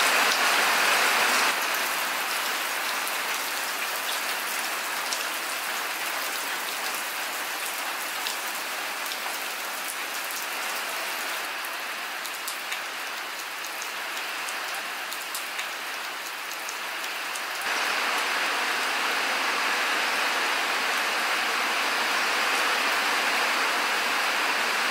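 Steady rain falling, an even hiss with scattered sharper drop sounds. It drops in level about a second and a half in and rises again about two-thirds of the way through.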